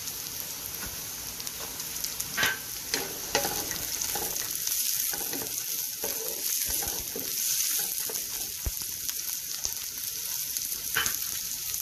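Sliced onions, cut green beans and cashews sizzling in hot ghee in a frying pan while a spatula stirs them, with a few sharper scrapes of the spatula on the pan.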